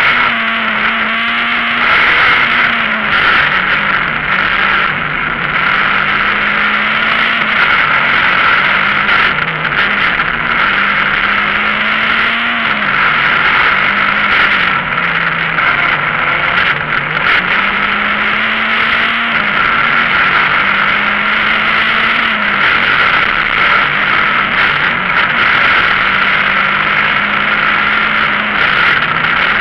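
Citroën Saxo VTS rally car's four-cylinder engine at full attack, heard from inside the cabin: engine pitch climbs under acceleration and drops off again every few seconds, over constant road and cabin noise.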